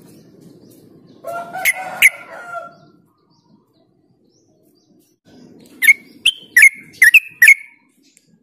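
Yellow-vented bulbul singing: a short burst of calls about a second in, then after a pause a quick run of about six sharp, loud notes near the end.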